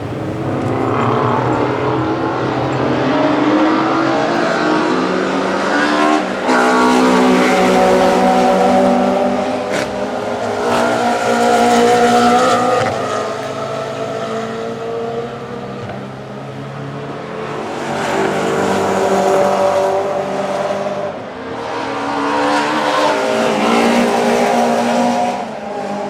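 Classic DTM touring-car racing engines passing the stand in several loud waves, revving hard, their pitch climbing and dropping as they accelerate and shift.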